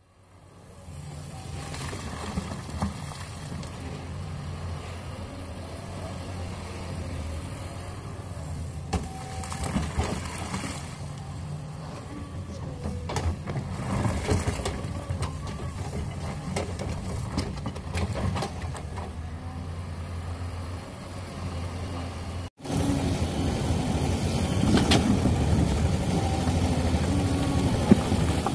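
Caterpillar 320D hydraulic excavator's diesel engine running steadily under load, with scattered metallic clanks and knocks as it digs into rock. The sound drops out for a moment about three quarters of the way through and comes back louder.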